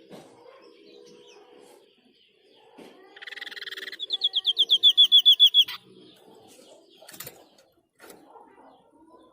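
White-breasted babbler (Stachyris grammiceps) giving its 'shot' song: a short buzzy rasp, then a rapid run of down-slurred whistled notes, about eight a second, that grows louder and breaks off abruptly.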